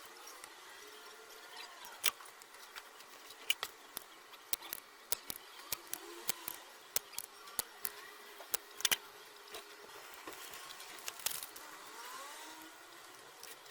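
A string of sharp, irregular clicks and taps, about two a second at the busiest, over a faint steady hiss.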